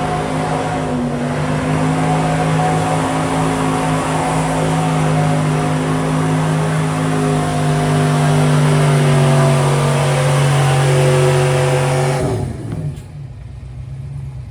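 Gasoline pickup truck engine held at high revs under heavy load while pulling a weighted sled, its pitch slowly sagging. The throttle is cut suddenly about twelve seconds in, ending the pull.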